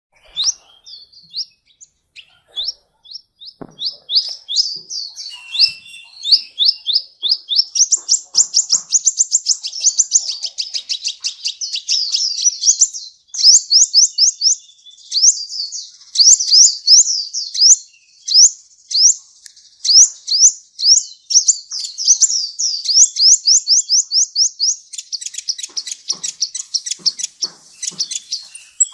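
Sunbird singing: a fast, continuous twittering of sharp, high-pitched chirps, breaking here and there into rapid trills.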